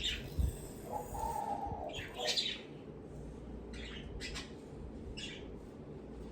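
Pet bird chirping in a handful of short, high calls with gaps between them, with one brief held whistle about a second in, over a steady low fan hum.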